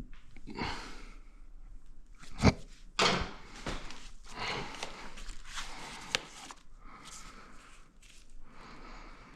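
Hand tools and plastic and rubber engine parts being handled: scraping and rustling with a few sharp clicks, the loudest about two and a half seconds in.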